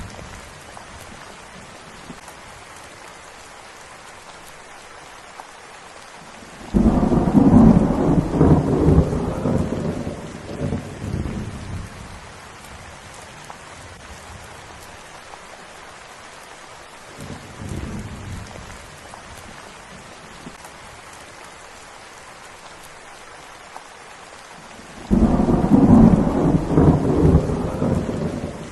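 Steady rain with thunder: a loud rumble of thunder breaks in suddenly about a quarter of the way through and dies away over several seconds, a fainter rumble follows, and another loud clap and rumble starts near the end.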